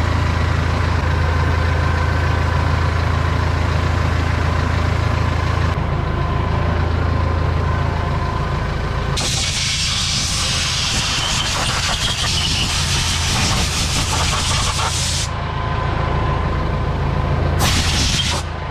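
An engine running steadily at idle, with a cleaning jet hissing loudly for about six seconds from roughly halfway through, then once more briefly near the end.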